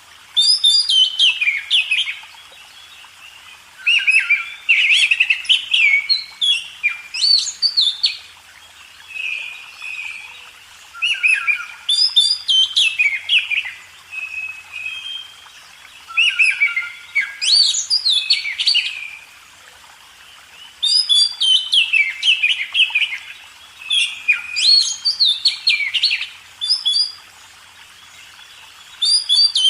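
A songbird singing in repeated phrases of rapid, high, downward-sweeping notes, each phrase two to four seconds long with short pauses between, about eight phrases in all.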